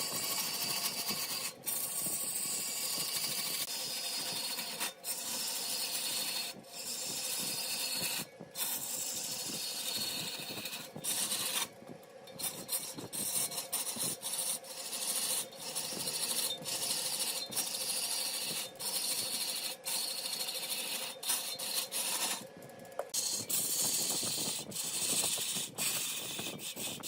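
Large wood lathe spinning a log of red wood while a tool works the surface: a continuous hissing scrape over a steady hum, broken by several short pauses as the tool comes off the wood.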